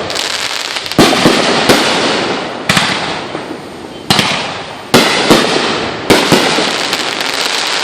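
Fireworks going off: a string of sharp bangs roughly a second apart, each trailed by a fading crackling hiss, with a dense run of rapid crackles near the end.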